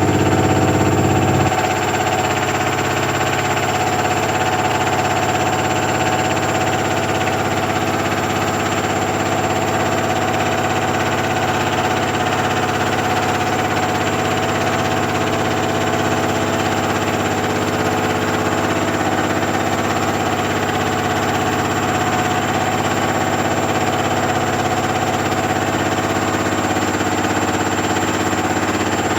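Washing machine on its spin cycle: the drum spinning at a steady speed, a continuous hum with several held tones, a little louder for the first second or so and then unchanging.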